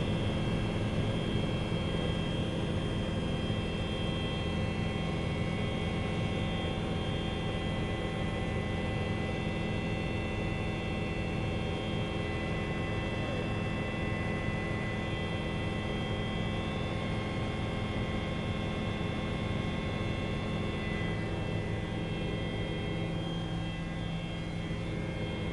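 Helicopter holding a hover: a steady drone of engine and rotor with several steady whining tones above it.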